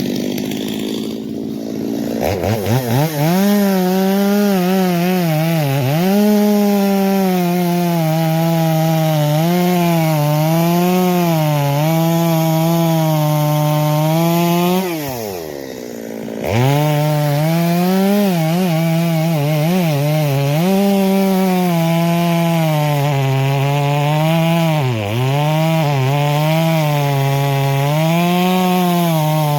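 Stihl MS250 two-stroke chainsaw revving up about two seconds in and running at high throttle while cutting wood, its pitch wavering and dipping under the load. Midway the engine drops off for a second or so, then revs back up and cuts on.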